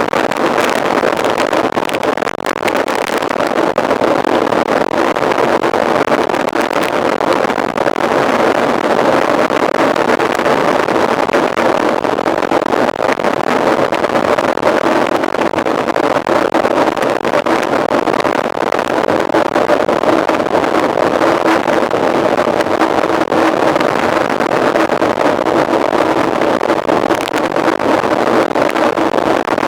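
Steady rushing wind noise on the microphone, mixed with tyre and drivetrain noise from a mountain bike being ridden at speed.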